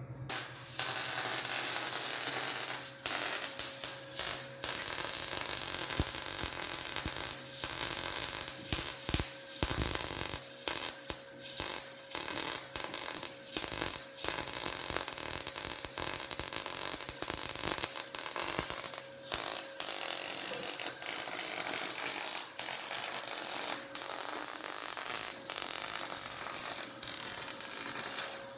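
Welding arc crackling and sizzling steadily, cut by many brief pauses between short weld runs.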